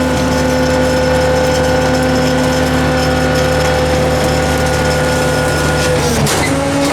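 The garbage truck's hydraulic pump whining steadily with its diesel engine held at a fixed speed, a stack of steady tones that drops in pitch about six seconds in.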